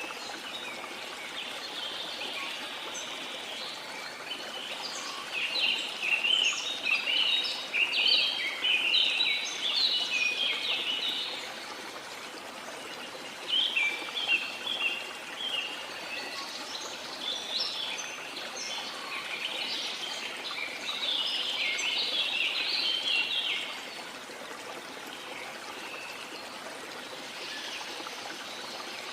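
Waterfall rushing steadily beneath tropical rainforest birds singing in two long bouts of rapid, high chirps, the first about five seconds in and the second from about fourteen to twenty-three seconds in.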